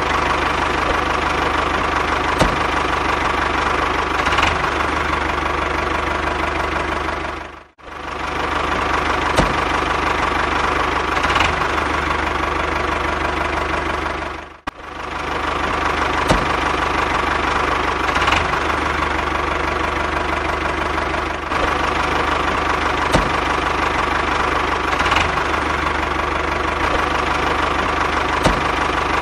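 A DIY mini tractor's motor running steadily with a constant drone. It cuts out for a moment twice, about a quarter and about halfway through.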